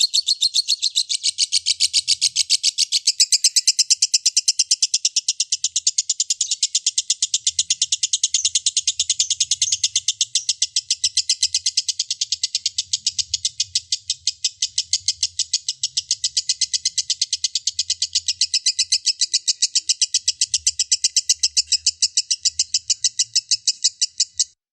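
Lovebird ngekek: one long, unbroken run of rapid, shrill chattering notes repeating several times a second, cutting off suddenly near the end.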